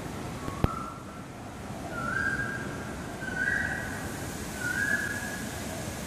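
A bird repeating a clear whistled note about every second and a half, each note sliding up at its start and the series edging higher in pitch. A single sharp click sounds just under a second in.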